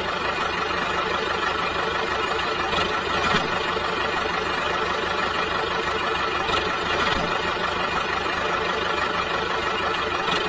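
Engine running steadily at idle, a rapid low chugging with a steady buzz above it.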